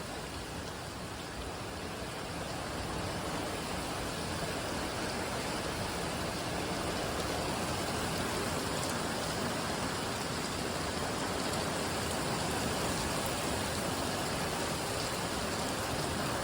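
Heavy rain falling in a steady, even hiss that grows slowly a little louder.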